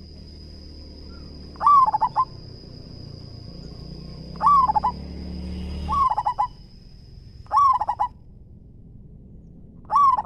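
Zebra dove cooing: five short song phrases a couple of seconds apart, each a rising note that runs into a quick string of clipped coos. A thin steady high whine runs underneath.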